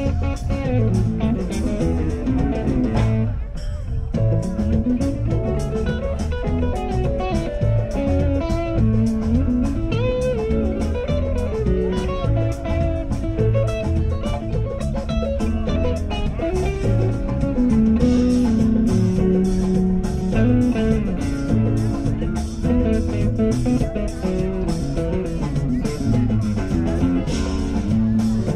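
Live rock band playing an instrumental passage led by electric guitar, with bass and drums keeping a steady beat.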